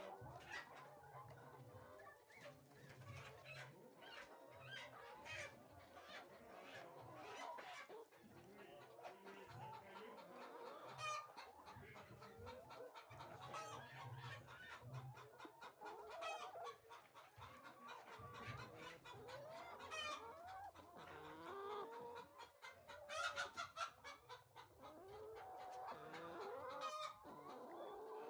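A flock of chickens clucking faintly throughout, many birds overlapping, with a few louder, sharper calls standing out, the loudest about two-thirds of the way in.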